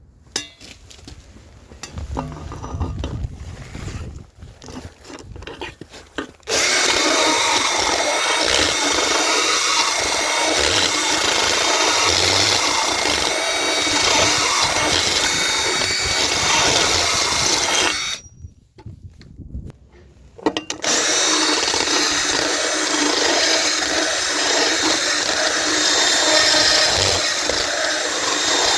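A power tool boring out the centre hole of a circular saw blade to enlarge it. A few seconds of handling knocks come first, then the tool runs with a steady whine. It stops for about two seconds partway through and then runs again.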